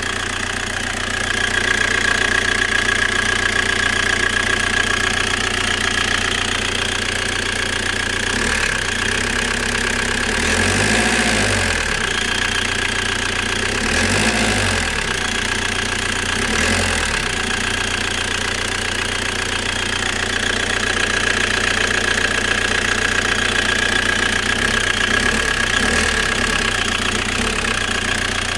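Fiat Brava's engine idling with a steady high-pitched whistle over it, the fault the owner is chasing. In the middle the engine is briefly revved three times and the whistle fades; back at idle it returns.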